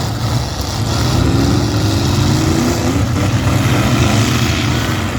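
Demolition derby cars' engines running and revving together in a dense, loud wash, with engine pitch rising and falling.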